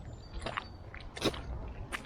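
Footsteps in wet mud on a woodland path, about three steps with a wet, sucking squelch.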